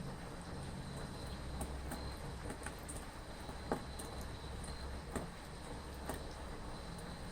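Rain ambience: an even hiss over a low rumble, with a faint high chirring of crickets and scattered sharp drip-like clicks, the loudest about halfway through.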